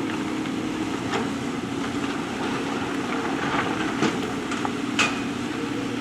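JCB backhoe loader's diesel engine running steadily under work, with a few sharp clanks. The loudest clank, near the end, has a short metallic ring.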